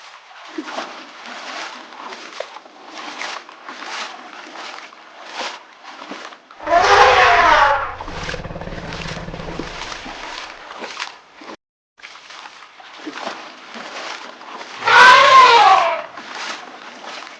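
Elephant calf calling: two loud cries, each falling in pitch, about seven and fifteen seconds in, over a continuous rough noise.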